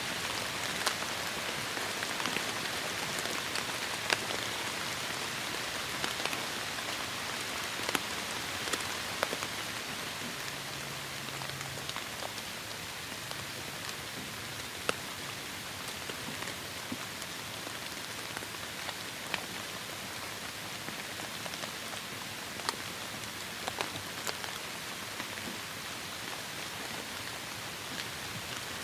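Heavy rain falling steadily, a dense hiss with scattered sharp taps of single drops striking close by.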